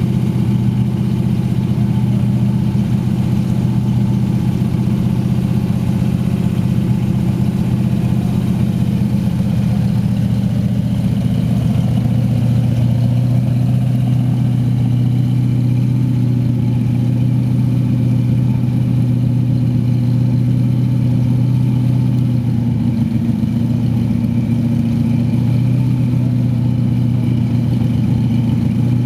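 Cadillac 500 cubic-inch V8 with a Competition Cams "Thumper" camshaft idling steadily.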